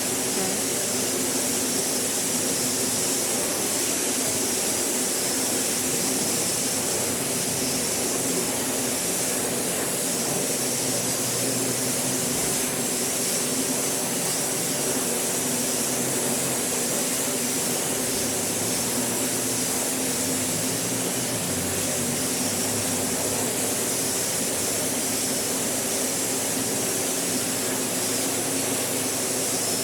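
Car wash equipment running steadily: a constant hiss of high-pressure water spray over the even hum of pumps and motors.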